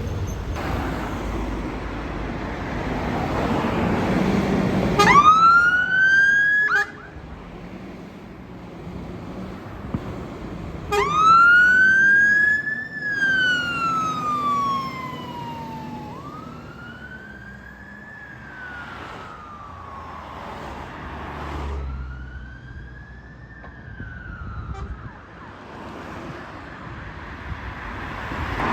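Fire engine's wail siren starting up as the appliance turns out: a rising wail cut short about five seconds in, then from about eleven seconds a slow wail that rises and falls three times before fading. The truck's engine and road noise run underneath.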